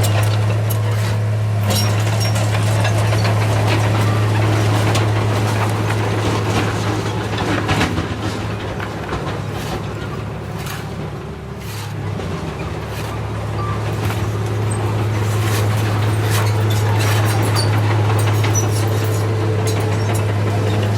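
Heavy diesel engine of earthmoving machinery running steadily, easing off for a moment about ten to twelve seconds in and then coming back up, with scattered clanks and knocks.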